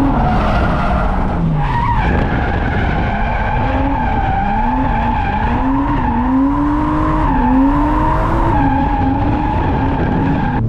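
Drift car sliding with its tyres squealing steadily while the engine revs rise and fall again and again. The revs drop sharply about a second and a half in.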